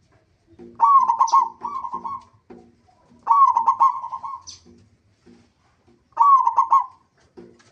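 Zebra dove (perkutut) singing: three phrases of quick, rhythmic coos, each lasting about a second, with short pauses between them.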